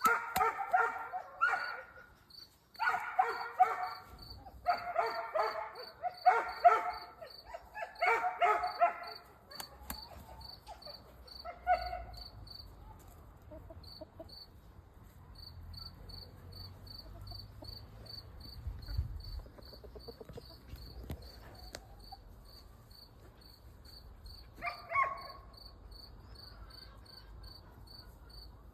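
Crickets chirping in a fast, even pulse. Over the first nine seconds there are five loud, pitched animal calls, each about a second long, and one more short call comes about 25 seconds in.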